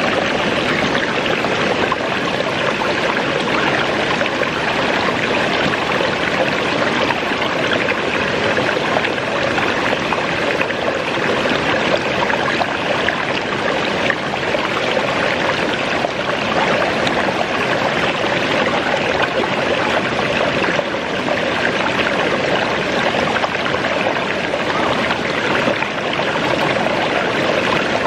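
Waterfall and its stream of falling and rushing water, a steady even roar with no change.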